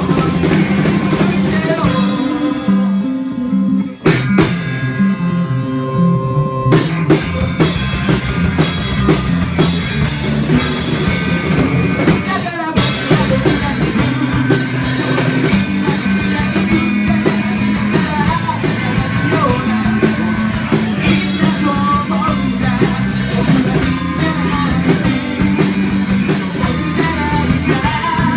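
Rock band playing with drum kit, guitar and singing. A few seconds in, the sound thins to a sparser passage with a brief drop, then the full band comes back in about seven seconds in.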